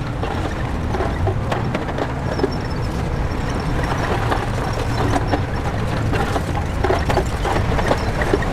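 Shantui crawler bulldozer's diesel engine running steadily, with scattered clanks and knocks from the tracks and blade.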